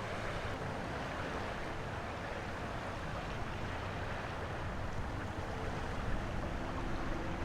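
Steady wash of wind and water, an even rushing noise with no distinct events.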